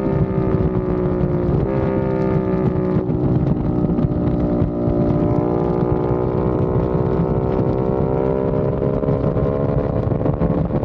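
Aprilia RS660 Factory's parallel-twin engine running through a non-resonated Mivv X-M1 Evo exhaust at part throttle, with a deep, bassy tone. The pitch eases down, steps up about two seconds in, sags again, then climbs slowly near the end.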